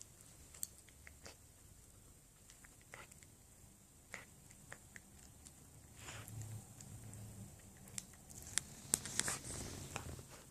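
Shiba Inu nibbling and mouthing with its front teeth: a scatter of small clicks and smacks that comes thicker and louder over the last couple of seconds.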